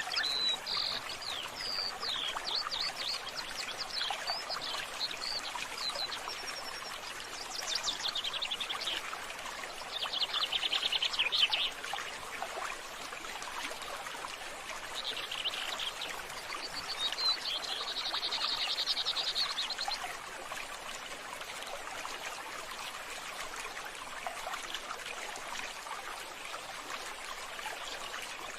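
Birds chirping and calling, with a few rapid trills in the middle, over a steady trickle of running water.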